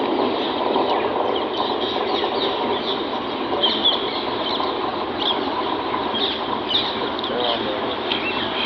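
Passenger train coaches rolling along the track with a steady running noise of wheels on rail, and many short, high falling chirps scattered throughout.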